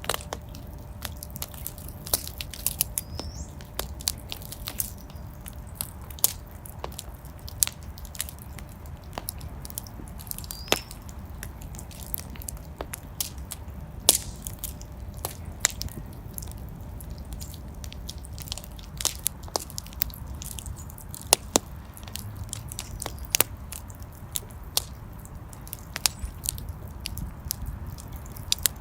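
Fireplace fire burning, with a steady low rumble of flame under frequent irregular crackles and sharp pops, a few louder snaps among them. Twice there is a brief high rising whistle.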